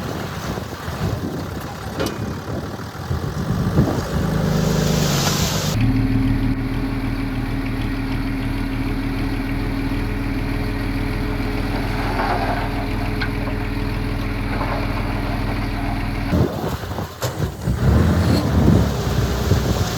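Heavy earth-moving machine's diesel engine running at a steady speed for about ten seconds, starting and stopping abruptly. Wind buffets the microphone before and after.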